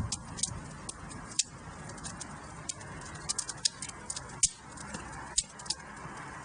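Wood fire burning in a fireplace: irregular sharp crackles and pops, the loudest about a second and a half in and a quick run of them a couple of seconds later, over a steady soft hiss of the flames.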